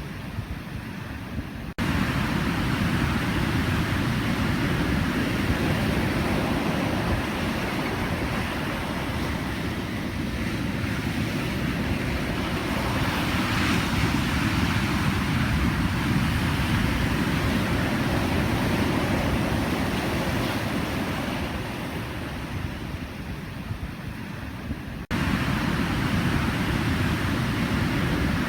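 Pacific Ocean surf: a continuous wash of breaking waves, with a swell in the middle. The loudness jumps up abruptly about two seconds in and again near the end.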